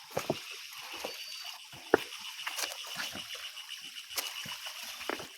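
Irregular light taps and clicks, one sharper knock a little under two seconds in, over a faint steady high-pitched hum.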